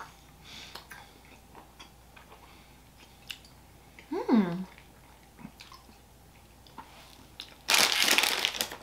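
Quiet mouth sounds of someone chewing a hard mint toffee, with scattered small clicks. A short falling "mmm" comes about four seconds in, and a loud rustle about a second long comes near the end.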